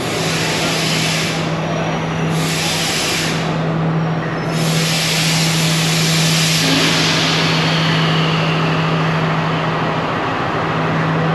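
Diesel train standing at a station platform: a steady low engine hum, with three bursts of hissing air in the first seven seconds, the last one longer and fading away.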